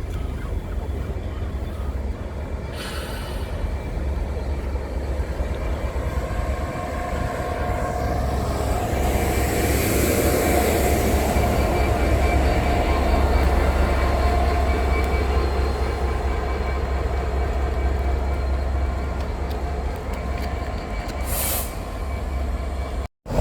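A train running past on the line, its deep rumble building to its loudest about halfway through and easing off a little after, with a few faint steady whining tones over it.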